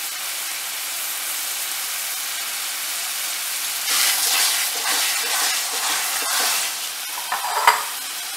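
Ground masala paste sizzling in hot oil in a pan, fried until the oil separates. From about four seconds in, a wooden spatula stirs and scrapes it through the pan, and there is a sharp tap near the end.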